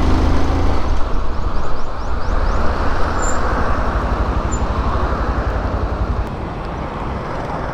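Motorcycle riding in city traffic: a steady low rumble of engine and road noise, with a rushing noise that swells in the middle and eases off near the end.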